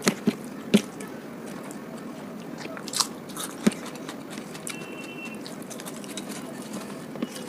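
Close-up chewing of rice and masala egg curry, wet mouth sounds with several sharp clicks, three in the first second and two more about three seconds in.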